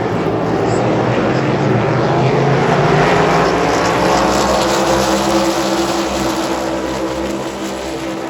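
A pack of NASCAR Cup Series stock cars with V8 engines passing at full speed. The engine drone swells to a peak about three seconds in, then fades as the cars go by, the pitches of many engines crossing and dropping.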